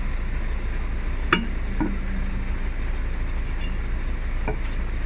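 A few sharp metallic clinks of tyre-changing tools, about a second in, just before two seconds and again near the end, over a steady low hum.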